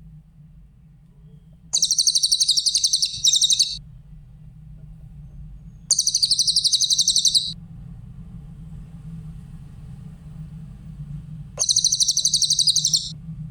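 Cililin bird singing three high, rapid trills of about one and a half to two seconds each, a few seconds apart, over a low steady hum.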